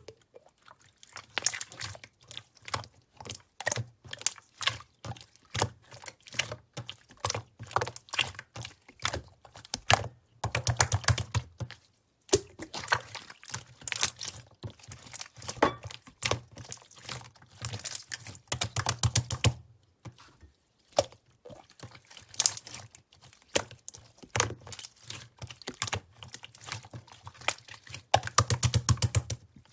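Clear slime being squished and pressed by hand, giving a steady stream of sticky clicks and pops. Faster, louder runs of crackling clicks come about ten seconds in, again around eighteen seconds, and near the end.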